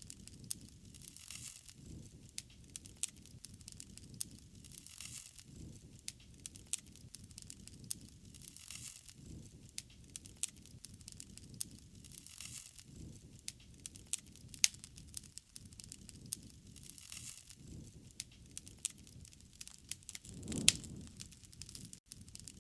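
Wood fire crackling, with irregular sharp pops over a soft rumble of flame, and a louder burst near the end.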